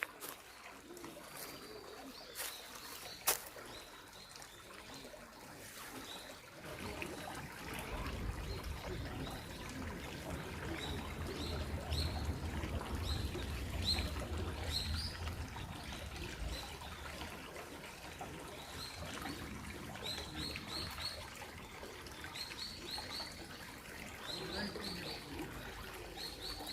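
Small songbirds chirping again and again in short high calls, often two or three in quick succession, over a trickling mountain stream. A few sharp clicks come in the first few seconds.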